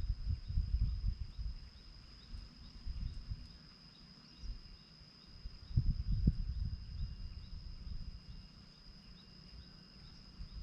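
Outdoor ambience: gusts of low rumbling noise come and go, under a steady high insect drone and faint, evenly repeated chirps. No francolin call is heard in this stretch.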